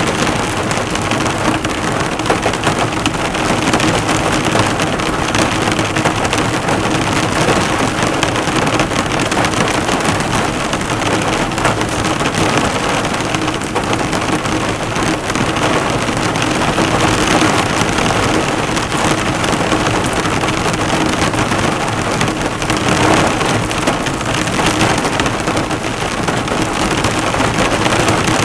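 Heavy rain falling on a car, a dense, steady patter of drops bouncing off the hood.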